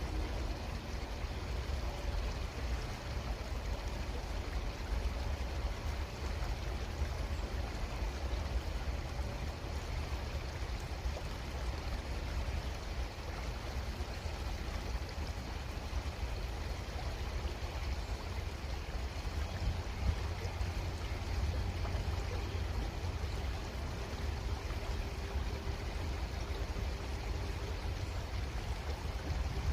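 Creek water flowing steadily, an even rushing sound with a low rumble underneath.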